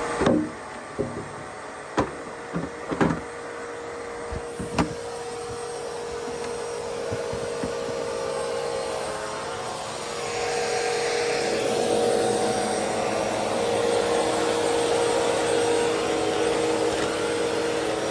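Vacuum cleaner running steadily with a constant tone, with a few sharp knocks and clicks in the first five seconds. It grows louder about ten seconds in.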